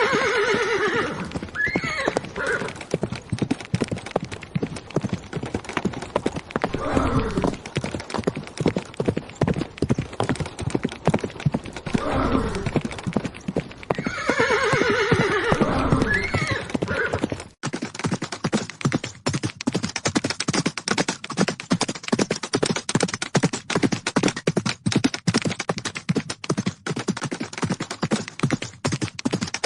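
Horse hooves clip-clopping, with a horse whinnying at the start and again about halfway, and blowing sounds in between. About two-thirds of the way in, the sound cuts to a dense run of sharp, rapid taps.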